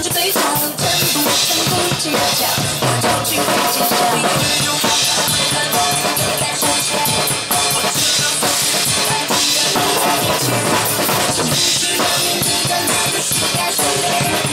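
Drum kit played live along to a pop song's backing track in an instrumental passage without vocals: a steady run of bass drum and snare strokes under the band music.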